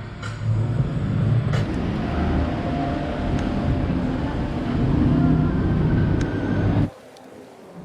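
Steady engine rumble of motor traffic, cutting off abruptly about seven seconds in.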